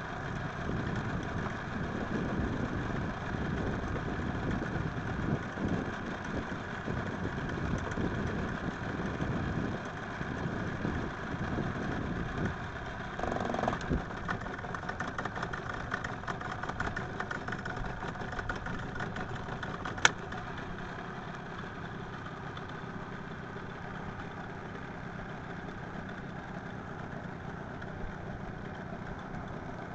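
An engine running steadily, busier in the first half, with one sharp click about two-thirds of the way through.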